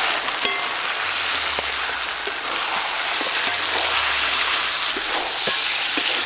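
Chicken pieces with chopped tomato and ground spices sizzling in hot oil in a metal wok while being stirred with a spatula: a steady, dense frying hiss with occasional light clicks. This is the stage where the spices are being fried down with the meat for a kosha curry.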